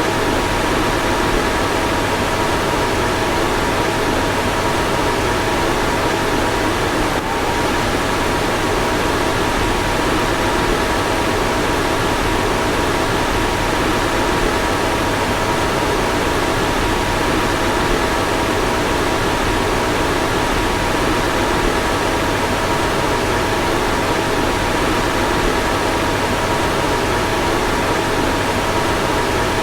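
Car fan running steadily: an even rush of air with a faint, steady whine on top.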